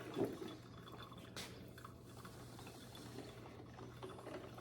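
Faint handling of a small kitchen appliance, with a soft knock and then a sharp click about a second later, over a low steady hum.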